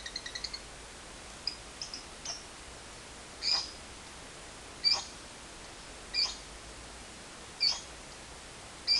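Lovebird's rapid chattering trill (ngekek) breaking off about half a second in. It is followed by a string of short, sharp single chirps that come about once every second and a half and grow louder after the first few.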